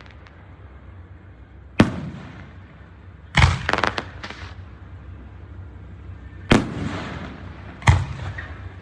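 Aerial fireworks going off: a sharp bang about two seconds in, a quick cluster of crackling pops a second and a half later, then two more bangs near the end, each trailing off in echo.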